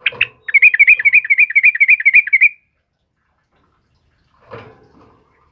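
Yellow-vented bulbul (trucukan) singing: two short notes, then a fast rattling run of about seven chirps a second lasting about two seconds, and a fainter short call near the end.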